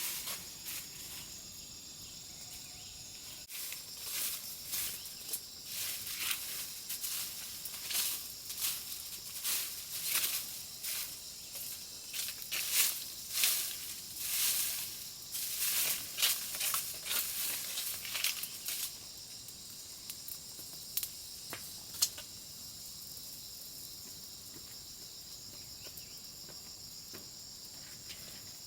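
Insects shrilling steadily in a high band, with irregular dry rustling and crackling of dry leaves being handled over the first two-thirds; after that only the insects remain, with a single sharp click.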